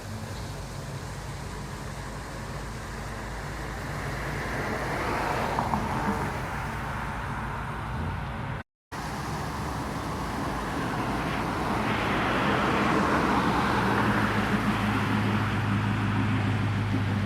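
Cars driving past on the street, engine and tyre noise swelling as each goes by, over a steady low engine hum. The sound cuts out completely for a moment about halfway through.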